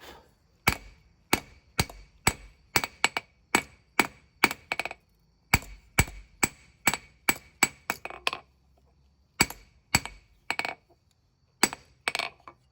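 Hand hammer striking a small spring-steel knife blank on an anvil: sharp, ringing blows at about two a second, in runs broken by short pauses.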